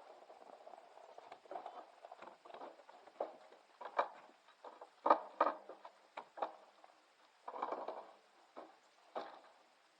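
Irregular knocks and taps, the loudest pair about five seconds in, with a short stretch of scuffing near the end.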